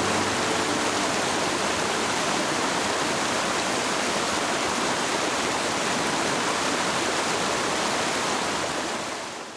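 Mountain stream water rushing steadily, fading out near the end.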